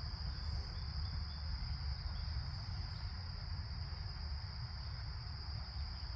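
A chorus of insects, crickets or the like, keeps up one steady high-pitched drone without a break. A low steady rumble runs underneath it.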